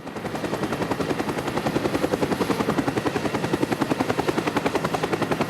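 Vehicle sound effect: a rapid, even pulsing machine sound at about nine beats a second. It comes in suddenly and grows a little louder over the first couple of seconds.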